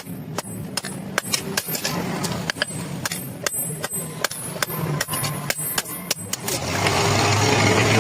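A hammer striking iron in quick, irregular blows, about three a second, with a metallic ring. About six and a half seconds in, the strikes stop and a louder steady noise with a low hum takes over.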